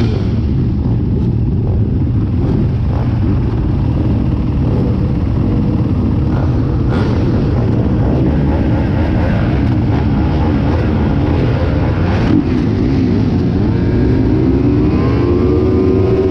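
A pack of 450-class motocross bikes running together, a dense mix of engine noise. Near the end several engines rev up, rising in pitch.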